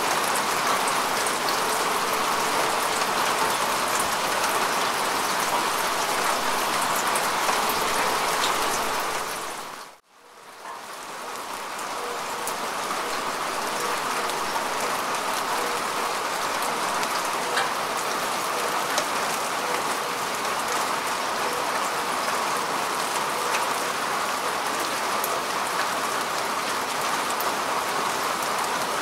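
Steady rain falling on grass and earth, a dense even patter with small drop ticks. About ten seconds in it fades out to near silence for an instant, then fades back up to full over the next few seconds.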